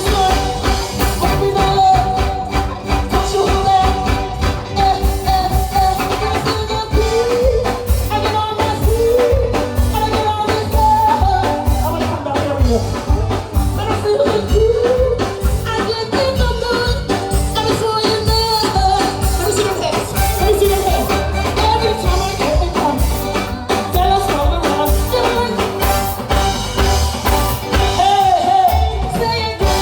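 Live soca band music played loud over a PA, with a heavy steady beat and a singer's voice.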